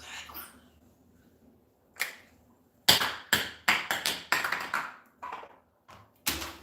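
A small tossed shoe missed in a catch and clattering down: one tap, then a quick run of about a dozen sharp taps and clicks as it drops and bounces, with a few last single taps.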